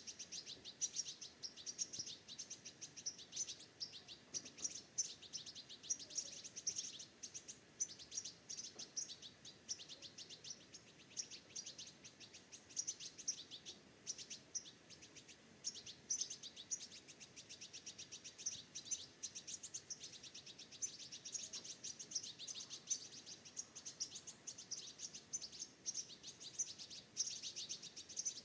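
Small birds chirping continuously: many short, rapid high-pitched calls overlapping without a break.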